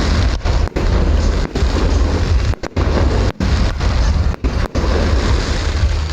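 Fireworks display bursting in quick succession, overlapping booms and crackles with a heavy low rumble. The recording briefly cuts out several times.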